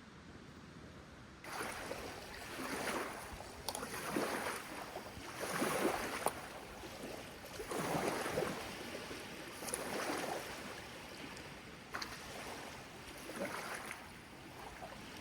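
Small lake waves washing onto the shore, a swell of rushing noise every couple of seconds.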